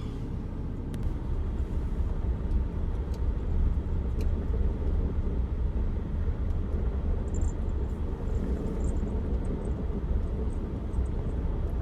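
Car driving slowly on a snow-covered road: a steady low rumble of engine and tyres, with a few faint clicks and squeaks.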